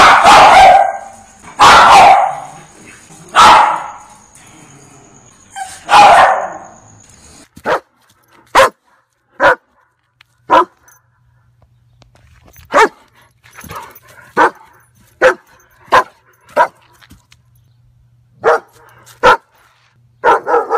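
Dogs barking, in two separate clips. First come four loud, drawn-out barks about two seconds apart. Then a second dog gives short, sharp single barks, roughly one a second, in uneven runs with pauses between.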